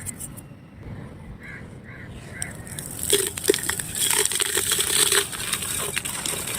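Dry clay being crushed and crumbled: gritty crunching and crackling, sparse at first, then dense and louder from about halfway through.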